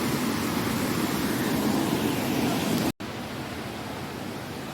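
Steady rush of a waterfall. About three seconds in, the sound cuts out for an instant and comes back quieter.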